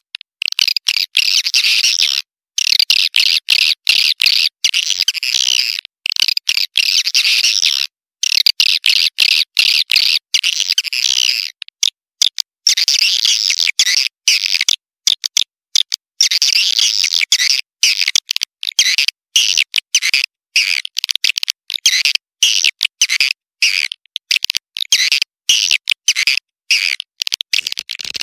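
Recorded swiftlet calls, the 'walet panggil' call track: dense, high, rapid twittering in runs of a second or two, cut by many short gaps of dead silence.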